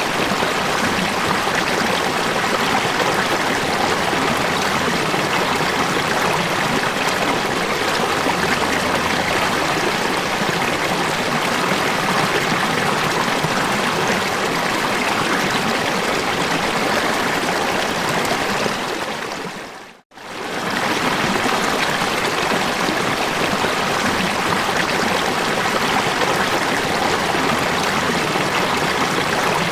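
Steady rush of falling water from a waterfall. About two-thirds of the way through it fades down to silence for an instant and comes straight back up, as where a looped recording restarts.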